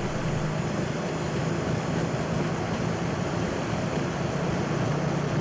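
Airbus A220-300's Pratt & Whitney PW1500G geared turbofans at takeoff thrust, with the steady rumble of the jet accelerating down the runway, heard inside the cockpit. A low hum and a broad roar hold level throughout.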